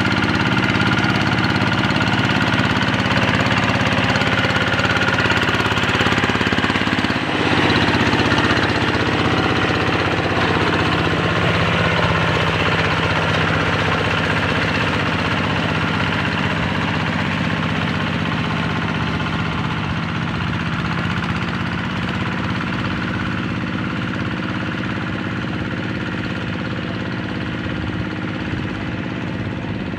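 Single-cylinder Kubota RD85 diesel engine of a hand tractor running steadily with a knocking diesel beat. Its note shifts about seven seconds in, and it grows slightly quieter toward the end.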